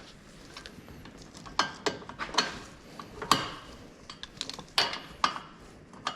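Metal tools and brake parts clinking and knocking during brake work, a series of irregular sharp clanks with lighter clicks between them, the loudest about halfway through.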